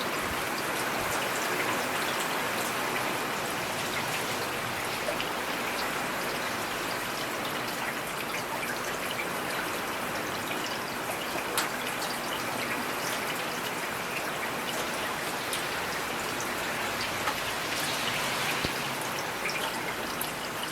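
Steady rain falling, with many small drop ticks on a surface and one slightly louder tick about halfway through.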